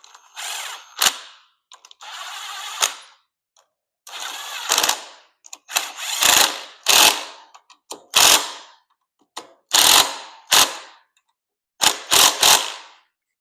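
Hand ratchet turning in about ten short strokes, each a quick clicking rasp, as a fastener is run in.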